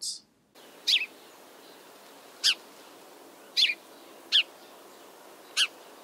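House sparrow giving dry chipping notes: five short, sharp chips spaced unevenly about a second apart, over a faint steady hiss.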